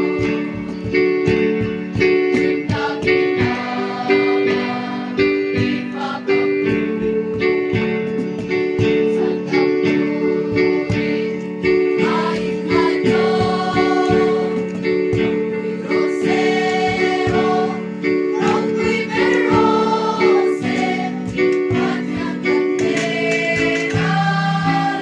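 A group singing a Christian song together to a strummed acoustic guitar, with a steady strumming rhythm under held sung notes.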